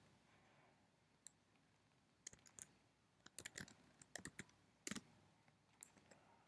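Faint computer keyboard keystrokes: scattered single clicks and a few short, irregular runs of typing.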